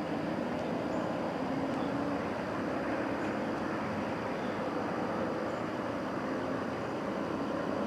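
CN freight train coming through slowly: a steady rumble with a faint hum running under it.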